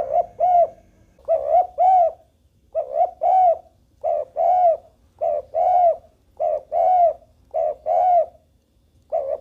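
Spotted dove cooing: a steady string of two-note coos, about one pair every second, with the second note of each pair the longer and stronger.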